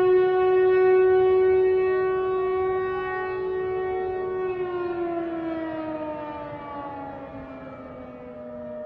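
A siren wailing on one steady pitch, then falling slowly in pitch from about halfway through as it winds down.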